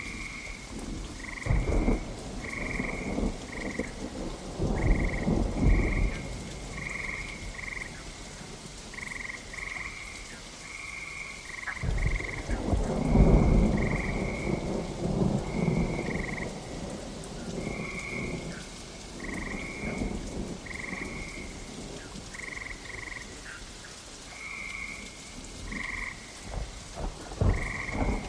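Frogs croaking in short, repeated calls over steady rain, with rolls of thunder; the loudest thunder breaks suddenly about twelve seconds in and rumbles on for several seconds.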